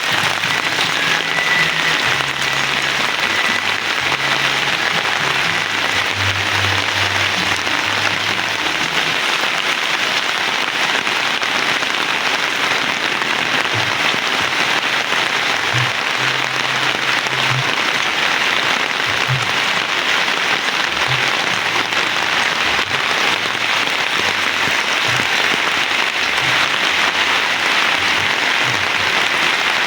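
Heavy rain falling steadily, an even hiss of many drops with no let-up, with a few irregular low thuds underneath.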